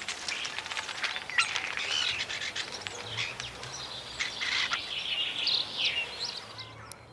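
Common starling singing: a long, varied run of whistles, rising and falling sweeps and rapid clicks, fading out near the end.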